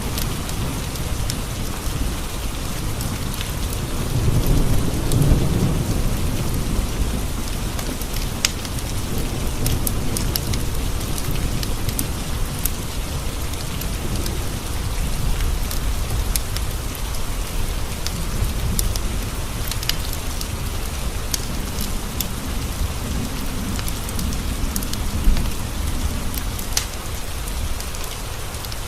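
Steady rain pattering, with low rolling thunder swelling about four to six seconds in and again near the end. Scattered sharp snaps of a crackling wood fire run through it.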